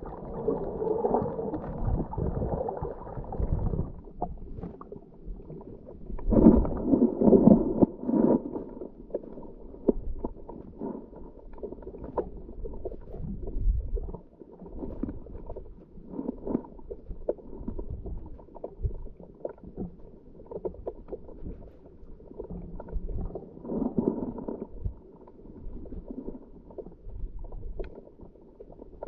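A scuba diver's exhaled breath bubbling out of the regulator, heard muffled underwater through a GoPro housing. The bubbling comes in bursts: one at the start, a louder one a few seconds later and a smaller one near the end, with scattered faint crackles in between.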